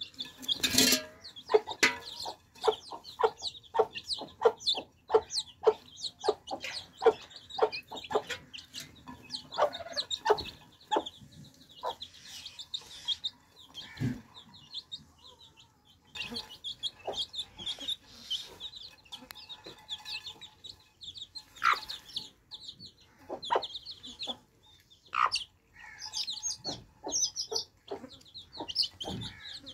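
Baby chicks peeping continuously in high, short cheeps, with frequent sharp, irregular taps of their beaks pecking at the water dish as they drink.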